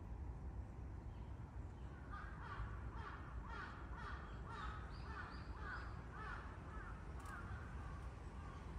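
A bird calling faintly in a quick series of short repeated calls, about two a second, from about two seconds in until about seven seconds, over a low steady rumble of forest ambience.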